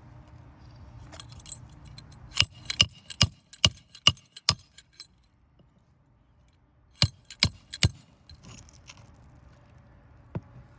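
Hammer driving roofing nails into asphalt shingles: a quick run of about eight sharp strikes, then four more a few seconds later and a single one near the end.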